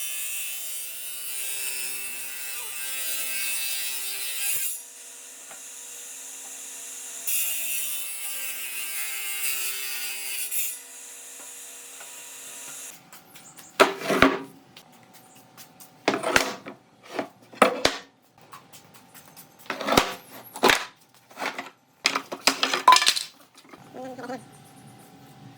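A power tool running on wood with a steady whine and hiss. It drops off about five seconds in, comes back briefly and stops about halfway through. Then comes a string of about seven short, sharp hand-work sounds on the wood.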